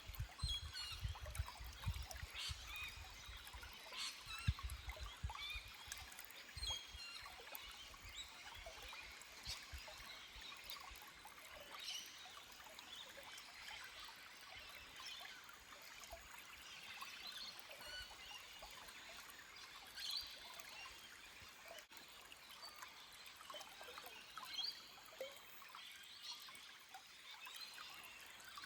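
Forest stream trickling over rocks, with small birds chirping and calling on and off. Low rumbling bumps come and go in the first several seconds.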